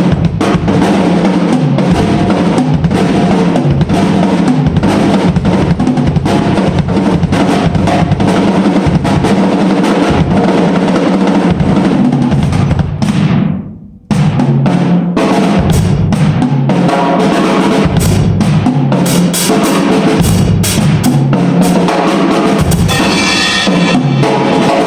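Drum kit played continuously in a dense groove, with bass drum, snare and cymbals. Just before the middle the sound falls away and cuts out for a moment, then the playing picks up again.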